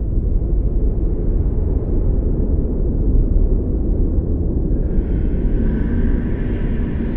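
Blizzard wind blowing hard in a deep, steady rumble, with a higher hissing layer of wind joining in about five seconds in.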